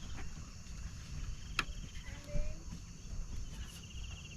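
Insect chirping outdoors: short pulsed trills about a second long that repeat every couple of seconds, over a steady low rumble. A single sharp click comes about one and a half seconds in.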